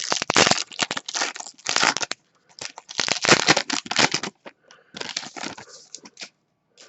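Foil wrapper of a hockey card pack being torn open and crinkled, in three bursts of crackly rustling with short pauses between.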